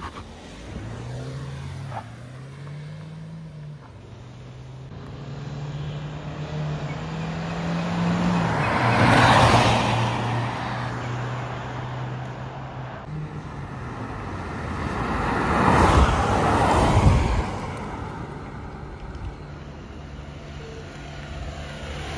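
Two SUVs, a Mahindra Thar and a Hyundai Venue, launching from a standing start in a drag race, engines revving up and rising in pitch through the gears. The sound then swells twice, about nine and sixteen seconds in, as vehicles go past.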